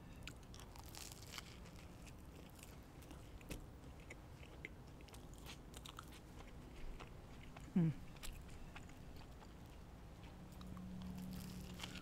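Close-miked biting and chewing of fast food, with small crunches and scattered wet mouth clicks. A short falling vocal "mm" comes about eight seconds in, and a low steady hum starts near the end.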